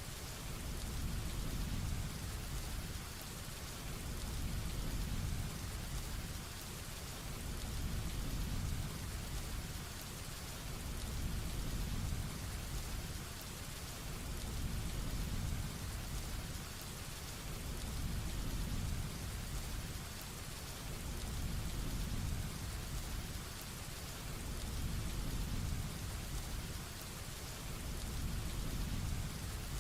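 Heavy rain falling steadily, an even hiss of drops, under a low rumble that swells and fades about every four seconds.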